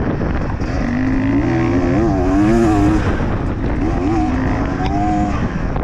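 Dirt bike engine being ridden, its revs rising and falling repeatedly over a rough, noisy running sound.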